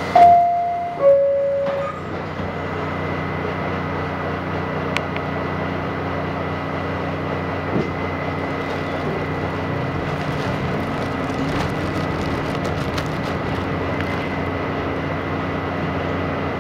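R68 subway car's two-tone door chime, a higher note then a lower one, sounds in the first two seconds. The car then runs with a steady hum from its traction motors over the rumble of wheels on rail, with scattered light clicks partway through.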